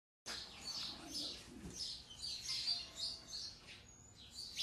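Small birds chirping: a quick series of short, high chirps that sweep downward in pitch, starting abruptly just after the beginning.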